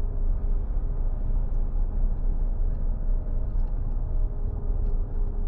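Steady low rumble of a car towing a caravan at road speed in a strong crosswind, with a faint steady drone over it, heard inside the car.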